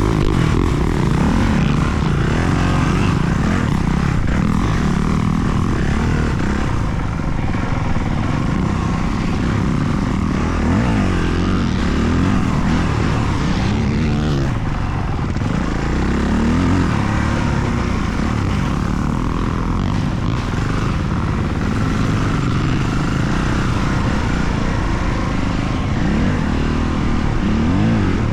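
Motocross dirt bike engines revving up and down over and over as they are ridden around the track.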